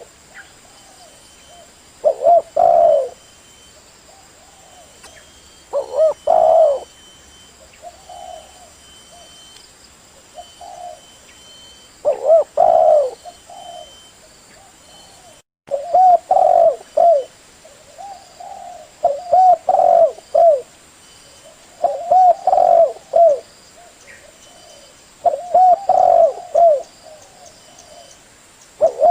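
Spotted dove (tekukur) cooing, a phrase of several coos about every two to four seconds. This is the male's song used as a lure call to draw other doves. The recording drops out briefly about halfway.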